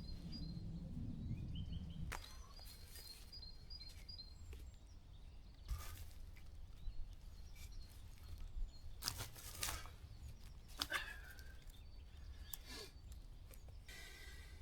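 Woodland birds chirping faintly. Several short, sharp scraping or rustling sounds come in the second half.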